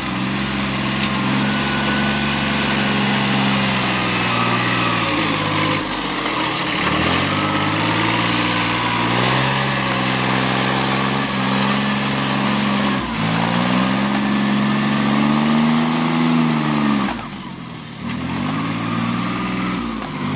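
Vehicle engine running under changing load, its pitch repeatedly rising and easing off in long swells, with a few short drops between them.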